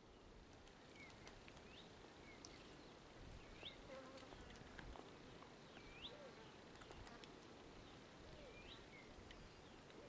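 Faint outdoor bush ambience: a steady low hiss with short, high bird chirps repeating roughly once a second.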